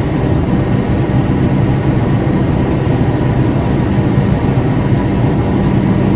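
R142 subway train standing at the platform, giving a loud, steady low hum with a few steady tones in it.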